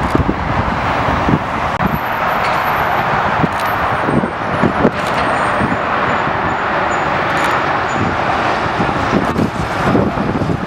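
Steady loud roar of broad noise, with gusts of wind buffeting the microphone.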